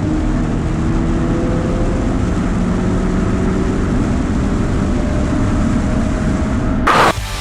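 Car engine running under way, its pitch shifting slowly, then music cuts in abruptly near the end.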